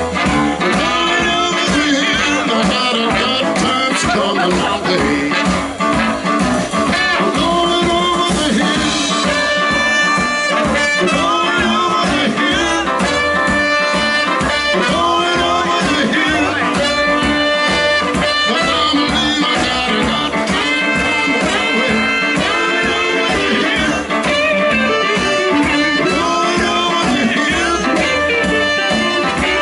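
Live blues band with a horn section and electric guitar playing a loud, driving number.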